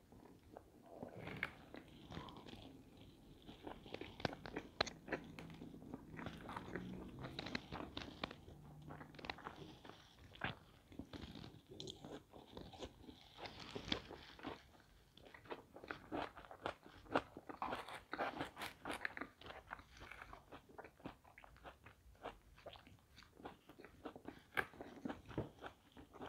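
Close-miked chewing of pizza: soft wet mouth sounds with many small crunches and clicks as the crust is chewed, and a fresh bite into the crust near the end.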